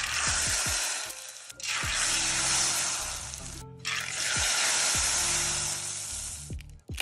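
Food sizzling in hot oil in three separate stretches, each starting suddenly and cutting off abruptly, over background music with a steady beat and falling bass sweeps.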